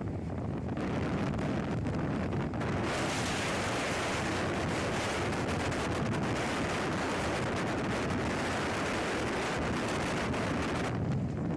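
Steady rushing wind buffeting the microphone, with a low rumble throughout; the hiss grows brighter about three seconds in and drops back near the end.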